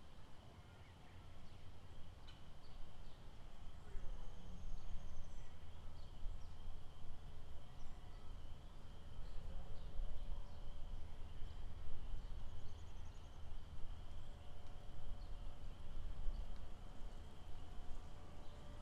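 Lakeside nature ambience: a steady high-pitched animal chorus runs throughout, with scattered short chirps and brief held calls over a constant low rumble.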